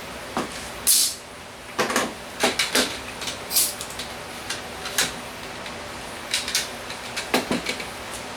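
Irregular knocks, clicks and short scrapes of workpieces and tools being handled on a workbench, over a steady background hum.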